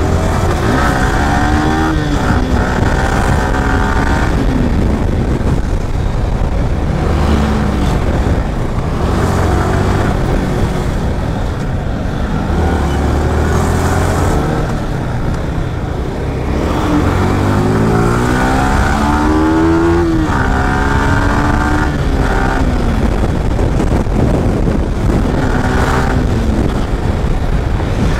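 Yamaha R15M sport bike's single-cylinder engine under way, its pitch rising and dropping several times as it accelerates, shifts and eases off in traffic, with steady wind rush over the microphone.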